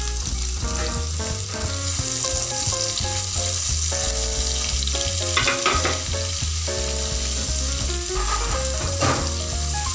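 Minced garlic sizzling as it sautés in melted butter and oil in a nonstick pan, stirred with silicone-tipped tongs. A steady frying hiss, with a couple of brief clicks from the tongs about halfway and near the end.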